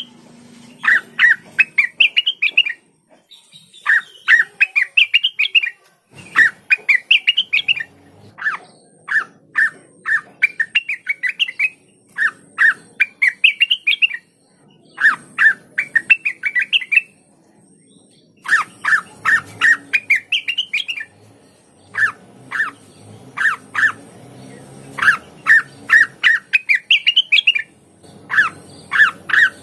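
Cucak wilis (rengganis), an Indonesian bulbul, singing loud phrases of rapid, sharp repeated notes, each phrase climbing in pitch toward its end and repeated after short pauses.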